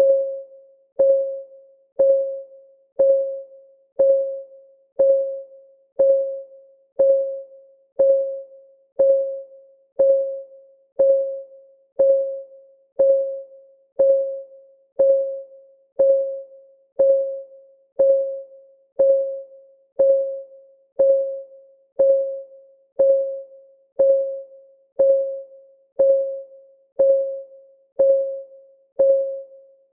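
Clock ticking sound of a countdown timer, one tick per second, steady and even. Each tick is a sharp click with a short pitched ring that dies away quickly.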